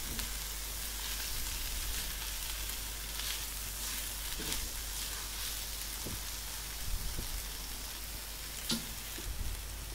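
Shredded cabbage, chicken and vegetables sizzling in hot oil in a wok, stir-fried with a wooden spatula that now and then knocks or scrapes against the pan.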